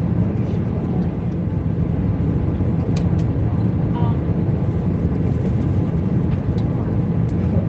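Airbus A320 passenger cabin in flight: a deep, steady noise of engines and airflow, with a couple of faint light clicks about three seconds in.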